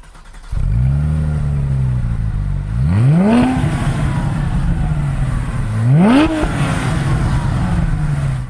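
2011 Porsche 911 Carrera S's 3.8-litre flat-six catching about half a second in and running at a fast idle, then blipped twice, the pitch climbing and dropping back around three and six seconds in.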